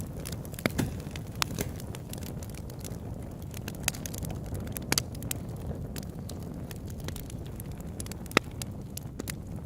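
Campfire burning with a steady low rumble of flames and scattered sharp crackles and pops, the loudest about eight seconds in.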